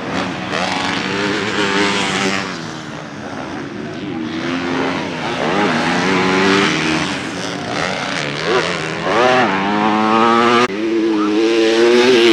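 Motocross bike engines revving up and down, several bikes overlapping, their pitch rising and falling with the throttle, with a sharp climb in revs about nine seconds in.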